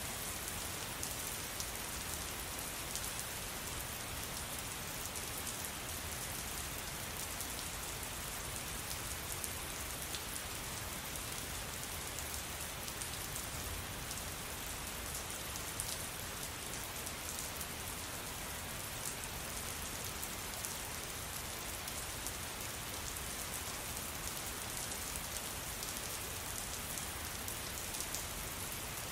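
Steady rain falling, a constant hiss with a dense patter of individual drops.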